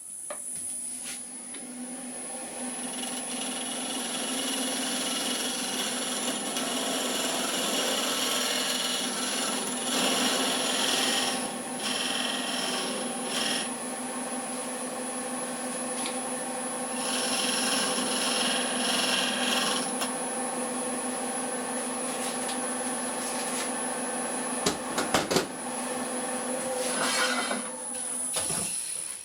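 Electric power tool running steadily on wood, a constant high whine over a rasping, abrasive noise that thickens and thins as the work goes on, with a few short knocks near the end.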